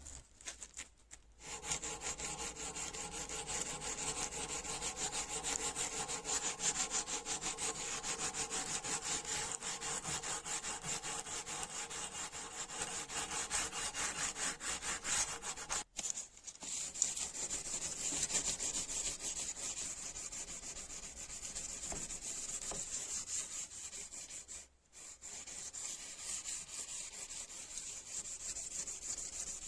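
Rusty wrench being scrubbed with an abrasive in fast, even strokes, stopping briefly about sixteen and twenty-five seconds in.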